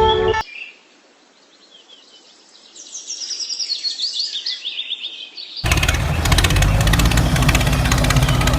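A bird chirps in quick repeated calls. About two-thirds of the way in, a motor starts abruptly and runs steadily with a fast rattle, much louder than the bird.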